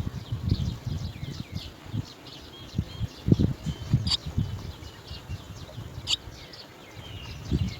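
Birds chirping: a quick run of short, high, down-slurred notes repeating, with sharp clicks about four and six seconds in. Irregular low knocks and bumps sound underneath and are the loudest part.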